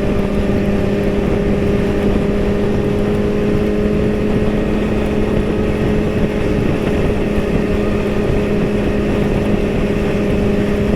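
Motorcycle engine running at a steady cruising speed, its note holding one pitch without revving, under heavy wind and road rush on the rider's camera.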